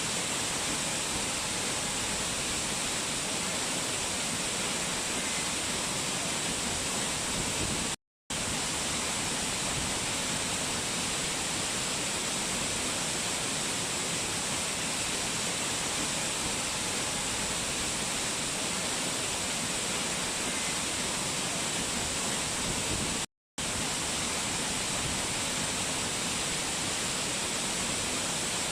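Fast-flowing mountain water rushing steadily in an even, unbroken hiss, cut twice by a very short gap of silence.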